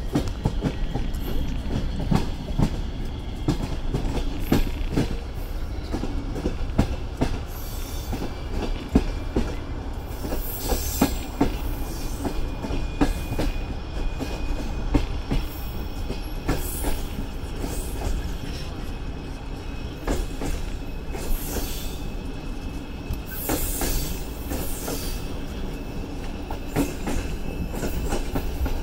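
Passenger train running along the track, heard through an open carriage window: a steady rumble with wheels clicking over rail joints, and brief high wheel squeals a few times.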